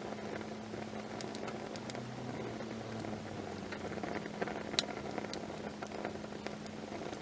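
Wood campfire burning, with a steady low rush of flames and scattered sharp crackles and pops from the wood, one louder pop about five seconds in.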